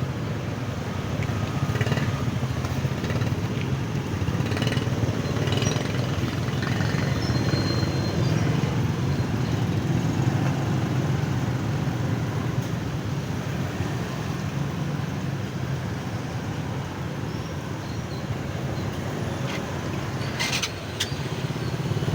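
A small motor vehicle's engine, likely a motorbike, running steadily close by, with general street noise and a few light knocks.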